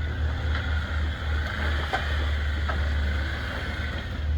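Off-road 4WD engine running steadily at low revs, with a couple of light knocks about two seconds in.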